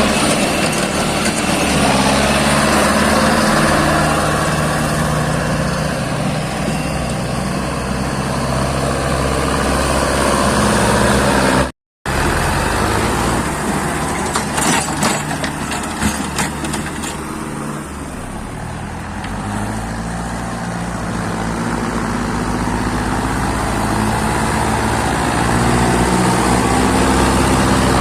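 Mahindra tractor's diesel engine running steadily. The sound cuts out for an instant about twelve seconds in, followed by a short run of rattling knocks.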